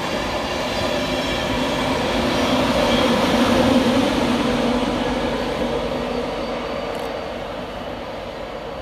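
LNER Class 91 electric locomotive pushing its train of coaches, trundling slowly past; the rumble of the train grows to a peak about three to four seconds in and then fades as it moves away.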